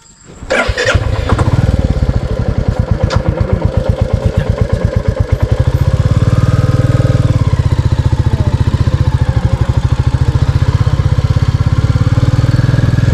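Royal Enfield Classic 350's single-cylinder engine starts about half a second in and settles into a steady idle with an even, pulsing beat.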